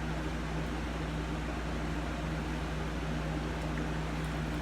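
Steady low hum over an even hiss, with no change in level, like a machine running in a room.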